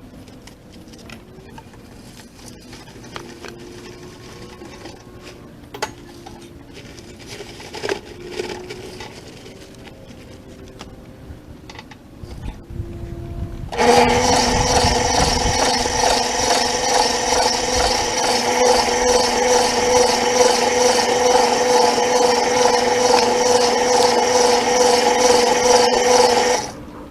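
Concrete being worked by hand with quiet scraping and a few knocks, then an electric mixer motor starts suddenly about halfway through, runs steadily with a high whine while mixing the concrete for about thirteen seconds, and cuts off just before the end.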